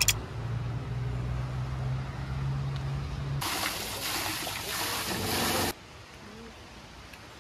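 A steady low motor hum for about three seconds, then a couple of seconds of rushing, splashing water that cuts off abruptly, leaving a faint steady background.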